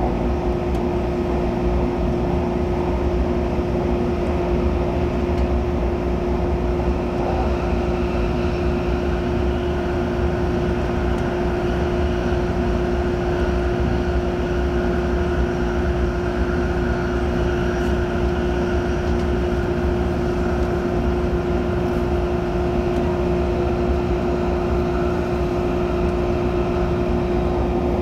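Steady hum and rumble inside an MTR Airport Express CAF train carriage, with one constant pitched tone throughout.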